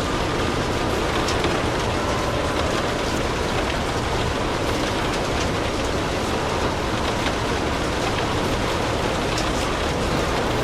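Steady rain over a low, even rumble, mixed with the faint scattered crackle of a fireplace fire.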